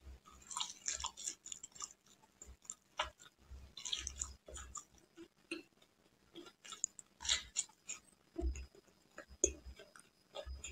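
A person biting and chewing an imarti, a syrup-soaked fried Indian sweet, close to the microphone: irregular clusters of sharp, wet mouth clicks.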